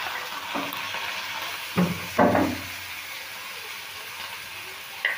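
Onions, cashews and chana dal frying in hot oil in a non-stick wok, sizzling steadily as they are stirred with a wooden spatula. About two seconds in, the spatula knocks against the wok twice.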